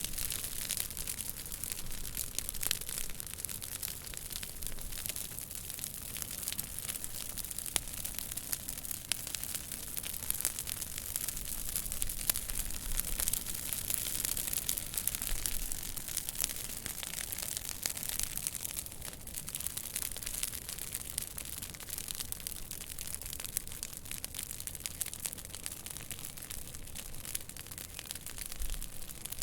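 Fire in a fireplace crackling steadily: a dense stream of small pops and snaps over a soft hiss.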